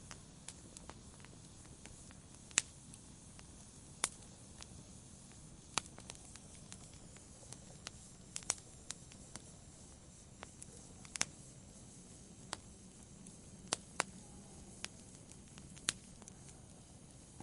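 Wood campfire crackling: sharp, irregular pops and snaps every second or so over a faint, steady hiss of the burning wood.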